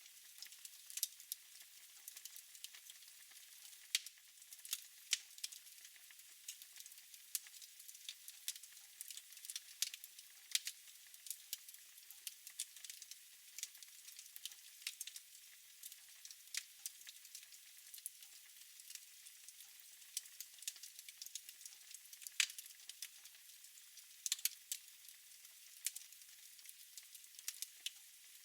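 Fire in a fireplace crackling: many small, irregular pops and snaps over a faint hiss, with an occasional louder snap.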